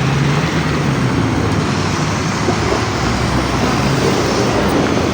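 LiAZ-5292 city bus running, a steady low engine drone mixed with road and body noise.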